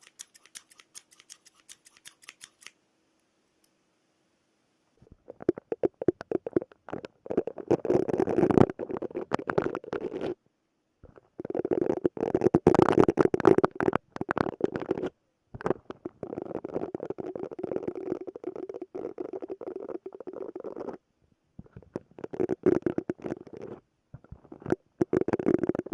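Silicone brush scrubbed in rapid strokes, in several long stretches broken by short pauses, starting about five seconds in. Before it, scissors snip briefly with quick light clicks.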